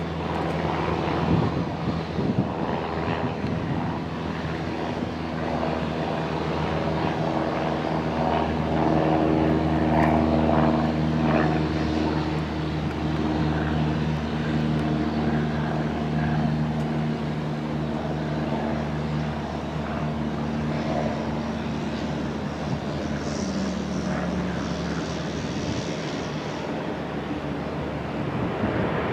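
Aircraft engines running steadily, a low hum made of several steady tones with some fluctuating noise above it.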